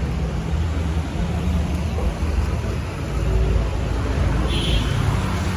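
Road traffic: vehicle engines running in a steady low rumble, with a brief high-pitched tone about four and a half seconds in.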